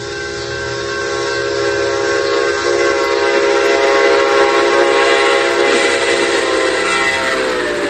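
A train horn sounding one long chord of several notes, growing louder, its pitch dropping slightly near the end.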